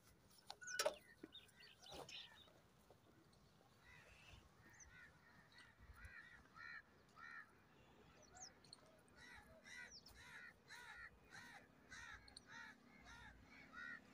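Faint bird calls: a long series of short repeated calls, about two a second, starting about four seconds in.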